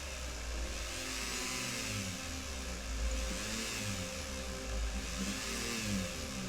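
Small electric power tool motor running steadily, driving a tap to cut screw threads in a zinc-alloy diecast toy car body.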